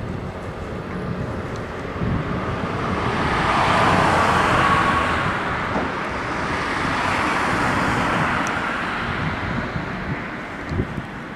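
A work boat passing: its engine and wash noise grow louder to a peak about four seconds in, stay up for a while, then fade, over a steady low rumble.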